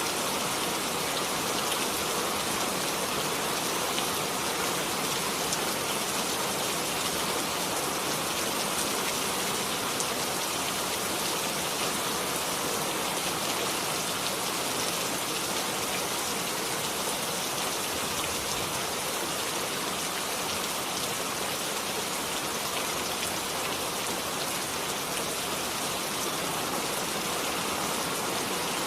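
Steady, even rain falling, with small scattered drop ticks.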